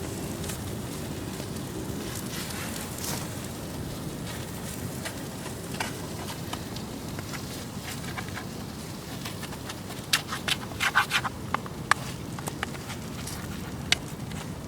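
Campfire burning: a steady low rush with scattered crackles, and a quick run of sharp pops about ten seconds in.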